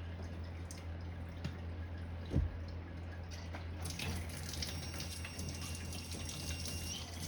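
A few small knocks and a thump, then a faucet is turned on about four seconds in and water runs into a sink as greasy putty is washed off hands. A steady low hum sits underneath throughout.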